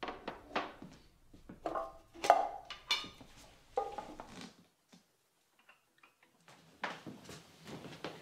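Irregular clattering and knocking of hard objects, some knocks with a short ring. It breaks off for about two seconds midway, then resumes.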